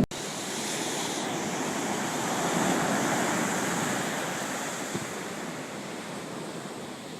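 Ocean surf washing up on a beach: a rushing hiss of water that builds over the first few seconds, then slowly fades away.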